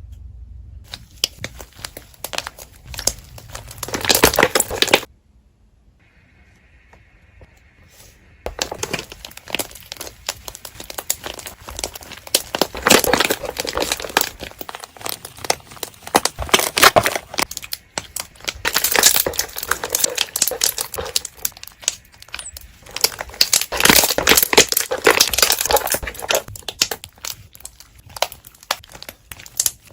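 Slime being squeezed, pressed and stretched by hand, giving dense runs of small air-bubble pops and crackles. The popping comes in several bursts, with a quieter pause about five seconds in.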